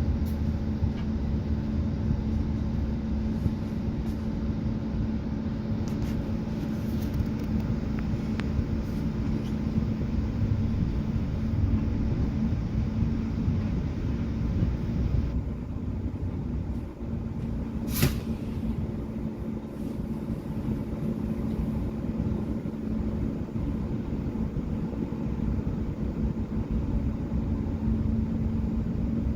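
Express bus cabin while driving: steady engine and road rumble with a constant hum, and one sharp click a little past halfway.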